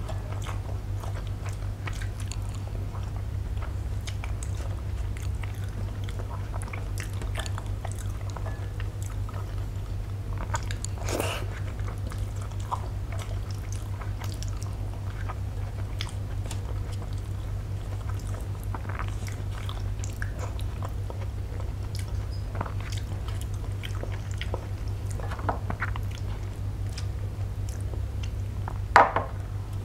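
Close-miked chewing of rice with mashed potato and fish bhorta, with small clicks as a hand works the food on a steel plate, over a steady low hum. Near the end comes a short louder splash as milk is poured from a glass bowl onto the rice.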